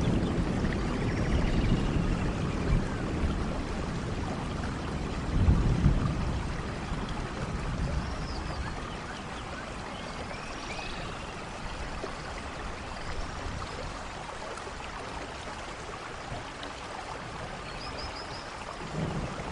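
Steady rain in a forest with low rolling thunder. A rumble swells about five to six seconds in and then dies away, leaving the rain to go on alone. A few short, high chirps sound through the rain.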